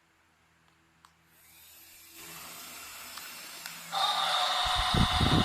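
Toy excavator's small electric motors whirring, faint at first and turning into a loud, steady whine just before four seconds in. A loud, uneven low rumble joins near the end.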